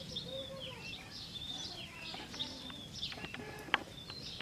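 Birds chirping and calling with many short, high whistled notes, over a steady outdoor background. A sharp click about three and a half seconds in is the loudest single sound.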